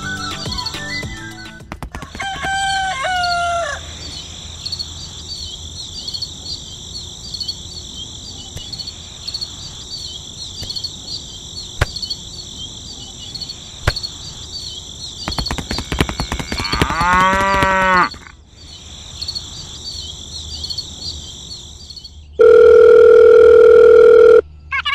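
Farmyard sound effects over a steady high chirping background: a cow's moo trailing off at the start, a fowl's clucking calls about two to four seconds in, and another farm-animal call about seventeen seconds in. Near the end a loud, steady electronic phone ring sounds for about two seconds.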